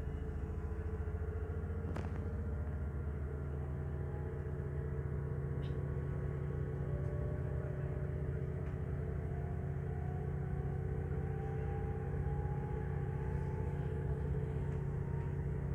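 Regional train running, heard from inside the carriage: a steady low drone with a whine that slowly rises in pitch through the second half. A single sharp click about two seconds in.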